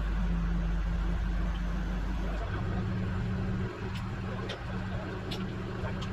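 Rollback tow truck's engine running steadily at low revs, its note shifting about two and a half seconds in. A few sharp clicks near the end.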